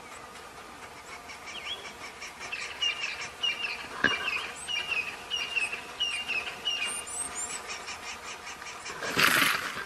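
A bird calling over and over, short hooked calls about twice a second, over a faint steady hum. One sharp click comes partway through, and a loud rush of noise comes near the end.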